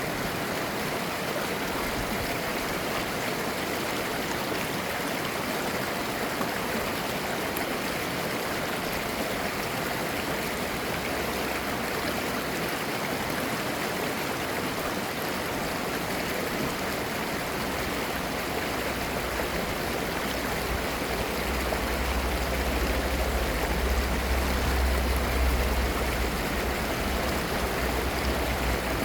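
Clear mountain valley stream flowing and babbling in a steady rushing wash of water. A low rumble joins it about two-thirds of the way through.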